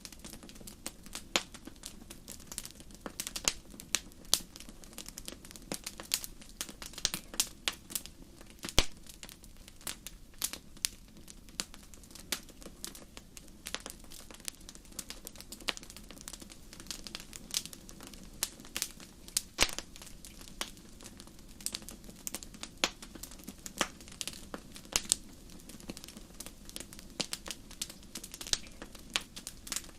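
Wood fire crackling in a fireplace: irregular sharp pops and snaps, several a second, over a steady low rush of the flames.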